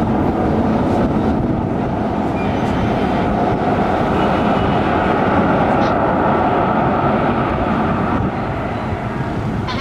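Jet airliner's engines running with a loud, steady roar, easing off slightly about eight seconds in.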